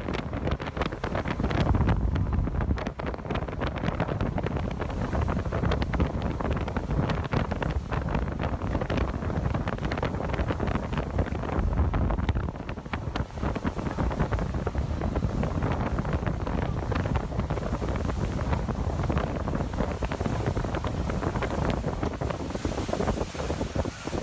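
Wind buffeting the microphone: a loud, uneven rumble that dips briefly about halfway through.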